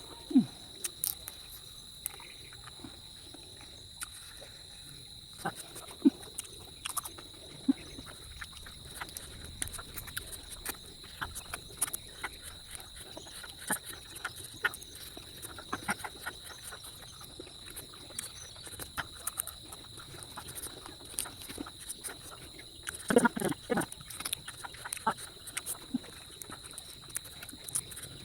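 Close-up eating sounds, with scattered short clicks and smacks of chewing and a louder cluster of them near the end. Behind them is a steady, high-pitched insect drone.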